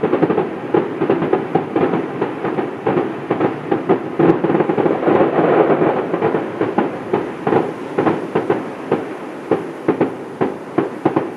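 Fireworks going off in a rapid, dense barrage of overlapping bangs and crackles. The barrage is thickest in the middle and thins a little near the end.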